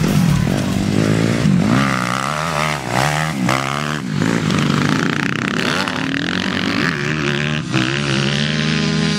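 Motocross bike engine revving, its pitch rising and falling again and again with throttle and gear changes.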